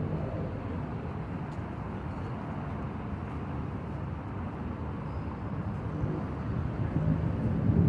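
Steady low outdoor rumble, growing louder near the end.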